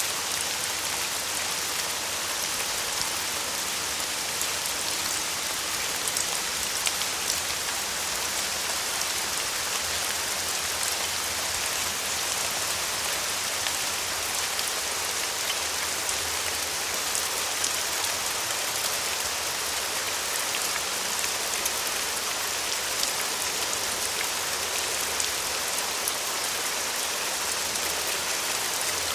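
Steady rain falling on a surface, an even hiss with many small drop ticks and no pause.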